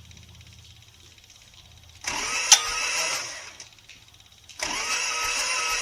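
Starter motor cranking the John Deere 855's three-cylinder diesel with its injectors removed, in two bursts, the first brief with one sharp crack, the second longer. This is a rough finger-over-the-injector-hole compression check, which the owner reads as the middle cylinder being weaker than the rest.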